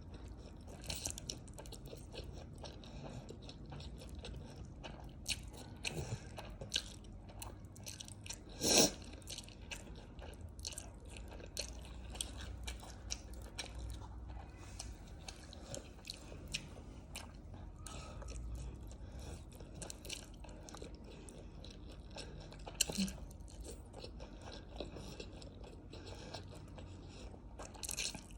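Close-miked eating sounds: a person biting and chewing food, with many short, crunchy, wet clicks and smacks. A louder bite comes about nine seconds in.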